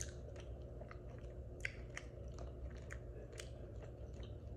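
Close-up chewing of a loaded potato in Alfredo sauce, faint, with scattered short mouth clicks.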